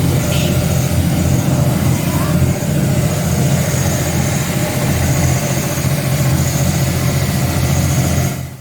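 River shuttle boat's engine running steadily under a constant hiss of wind and water. It cuts off abruptly near the end.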